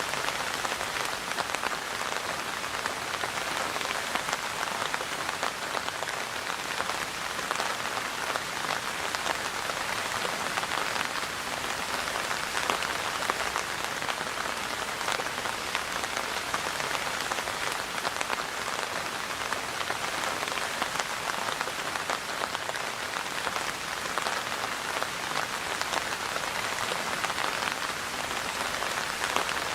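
Steady rain falling and pattering on a surface: a dense, even hiss of countless drops.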